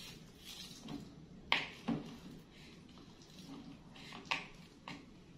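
A plastic drinking straw being unwrapped and pushed into a small boxed-milk carton, heard as a few short, sharp clicks and crinkles, the strongest about a second and a half in and again about four seconds in.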